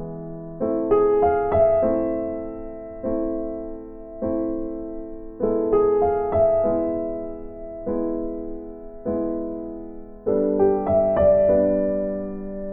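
Background piano music: slow chords struck every second or two, each ringing and fading, with short quick runs of higher notes between them.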